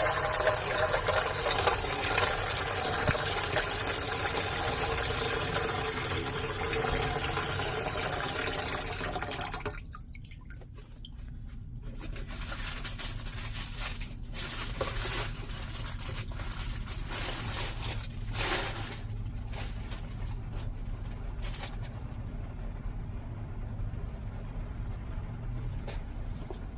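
Heavy rain and running water, a loud steady rush. About ten seconds in it drops suddenly to a quieter spatter with scattered ticks, over a low steady hum.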